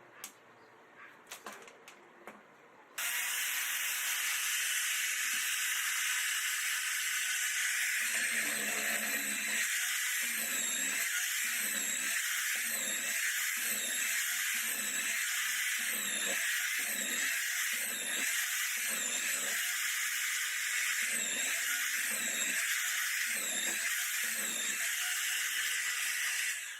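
Electric hand drill mounted in a homemade bench drill-press stand, switched on about three seconds in and running steadily with a high whine. From about eight seconds a regular pulsing, roughly once a second, runs under it until the drill stops just before the end.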